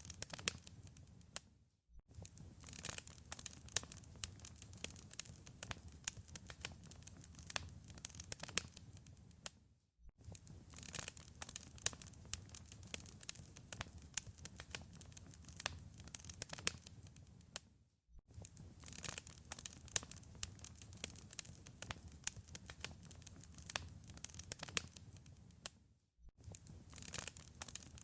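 Wood fire crackling in a fireplace: dense, irregular sharp pops and snaps over a low rumble of flames, dipping briefly to near silence about every eight seconds.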